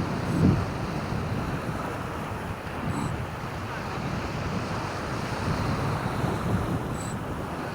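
Wind buffeting the microphone over surf washing on the shore: a steady rushing noise with low gusts, one stronger gust about half a second in.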